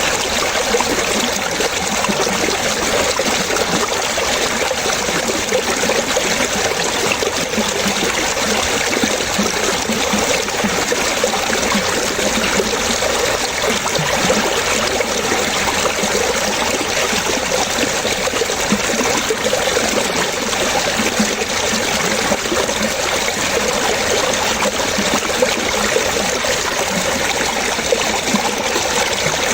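Running water trickling and splashing, steady and unbroken.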